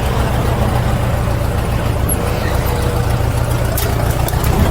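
GM 4.8-litre V8 truck engine held at high revs during a burnout, a loud steady drone that swells a little near the end.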